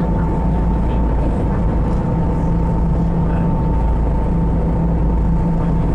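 Steady running rumble of a vehicle, with a constant hum and a thin steady whine over it.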